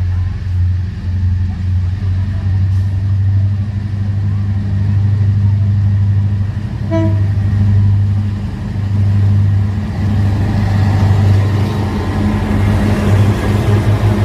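Diesel locomotive of a Babaranjang coal train running with a steady low engine drone. A short horn toot sounds about seven seconds in, and the train noise grows louder through the second half.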